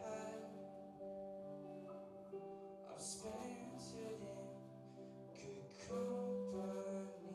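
A quiet passage of live band music: held chords that change every second or two, with brief hissy swells about three and six seconds in.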